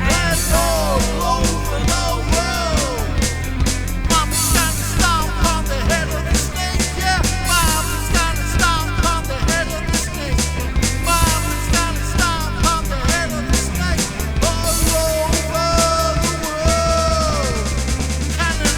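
Heavy rock music with a steady drum beat and sung vocals.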